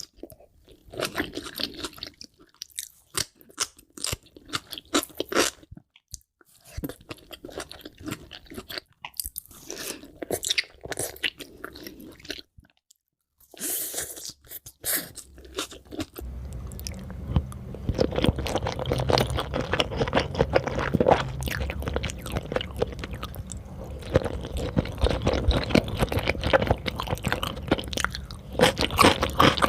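Close-miked chewing of sushi, with crunchy bites and wet chewing. It is irregular with short pauses at first, then denser and continuous from about halfway, over a steady low hum.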